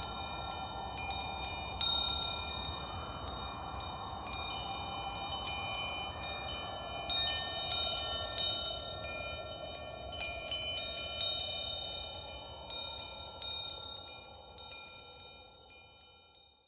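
Wind chimes struck at irregular moments, several high tones ringing on and overlapping, over a soft whooshing noise that swells and ebbs. It all fades out near the end.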